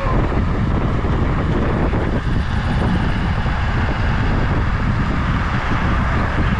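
Minibike ridden at full throttle: steady wind buffeting on the microphone over the small engine running.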